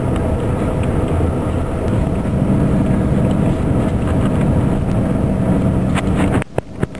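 Steady low rumble of a vehicle driving, heard from inside it. The sound drops away briefly with a few clicks about six and a half seconds in.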